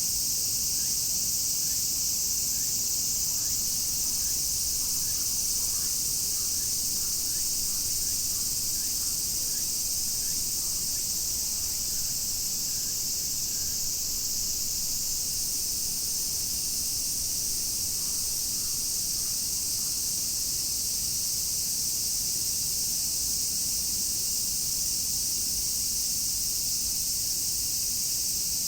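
Dense chorus of summer cicadas: a steady, high-pitched shrill buzz that swells a little in places. Faint short chirps repeat lower down during the first half.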